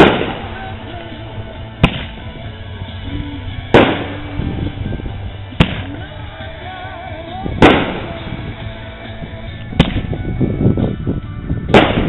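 Consumer fireworks firing a loud bang about every two seconds, seven in all.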